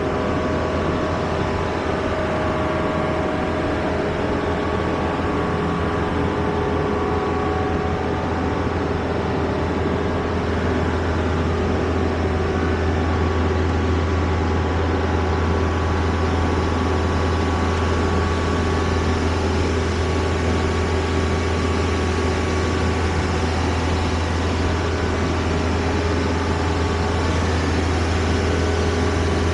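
A steady engine drone with a strong deep hum and a few faint steady tones above it, unchanging throughout.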